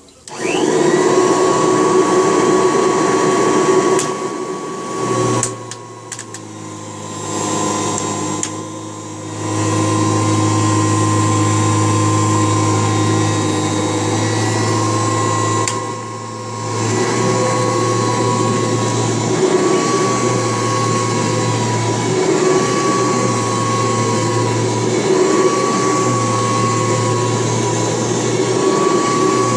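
Restored 1989 Kirby Legend II upright vacuum cleaner switched on, its motor spinning up at once to a steady whine. Its loudness shifts several times as it runs, and in the second half a low drone comes and goes every few seconds.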